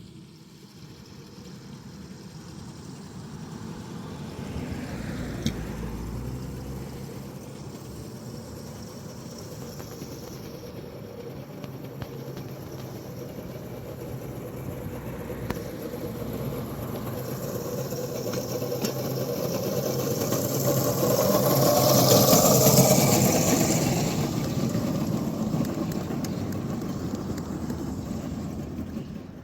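The electric traction motor and drive of a small 500 W ride-on locomotive running with its wheels on 7-1/4 inch gauge track, hauling a one-ton load up a steep grade at full throttle. The motor is damaged and straining. The sound grows louder to a peak about three-quarters of the way through, then eases off.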